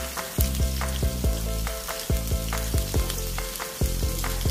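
String beans and onion sizzling in hot oil in a nonstick wok, with sharp clicks about twice a second.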